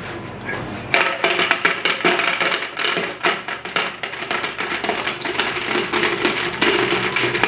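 Small homemade belt conveyor running slowly on a 50 RPM motor underpowered by a 12-volt battery, with a dense, irregular clatter of small rocks starting about a second in.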